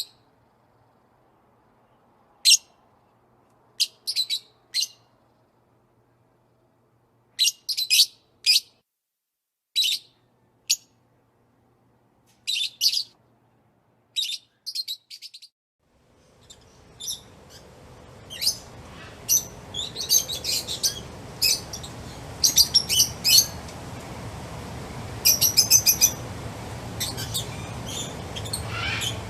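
Birds chirping in short, high calls, spaced out at first, then coming thick and overlapping. About sixteen seconds in, a steady rushing background noise fades up under the calls.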